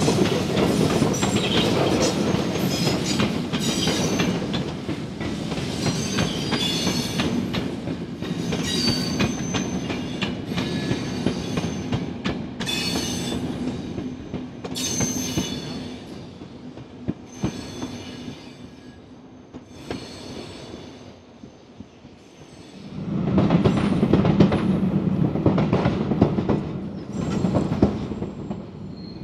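A passenger train of coaches running past, its wheels clacking over the rail joints with some high squeals. The sound dies away, then a second train passage swells in loudly about three quarters of the way through.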